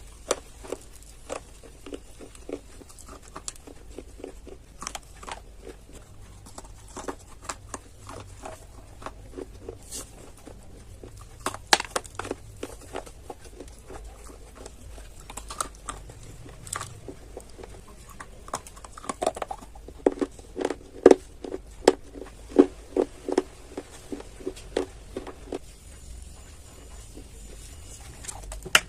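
Close-miked biting and chewing of dry clay: a long run of short crisp crunches, thickest and loudest from about 19 to 25 seconds in.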